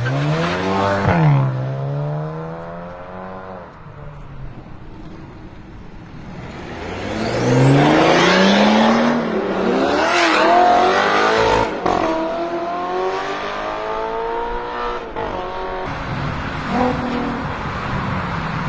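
BMW M6 twin-turbo V8 with an Akrapovic exhaust revving and accelerating hard. The engine note climbs and falls several times, loudest in the middle of the stretch.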